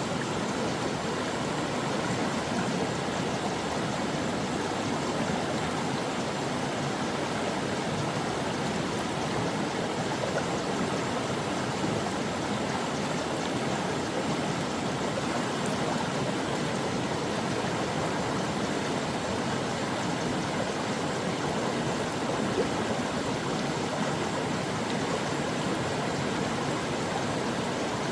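Brook water flowing and babbling over stones, a steady, even rush with no breaks.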